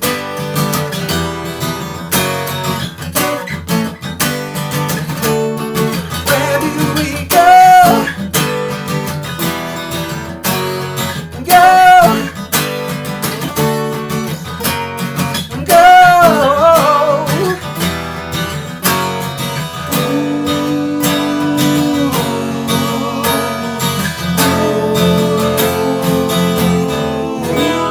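Acoustic guitars playing an instrumental passage of a song, strummed and picked, with three loud swooping notes about 7, 12 and 16 seconds in.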